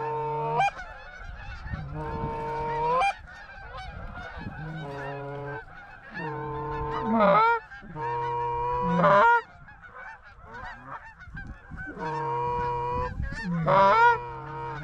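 Geese honking: a run of about seven drawn-out honks with short gaps, several breaking upward to a higher note at the end.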